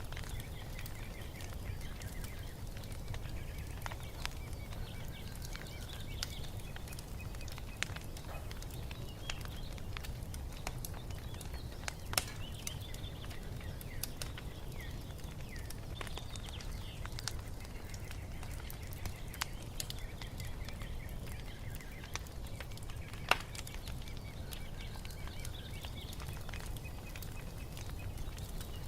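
Wood fire crackling with scattered sharp pops, two of them louder, about twelve seconds in and again later on, over a steady low rumble. Birds chirp faintly and repeatedly behind it.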